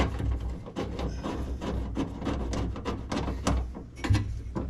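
Dense, irregular clicking and rattling of metal door hardware and the window regulator being worked inside an open car door, with many small knocks close together.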